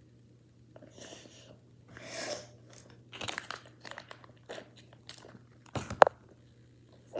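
Crunching and chewing close to the microphone, in irregular short bursts, with one sharp click about six seconds in.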